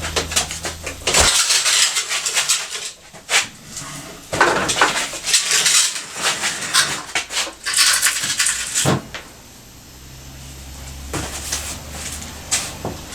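Metal parts and tools clattering and clinking in a busy run of knocks, handled during work on a motorcycle in a garage workshop. Near the end this gives way to a low steady hum.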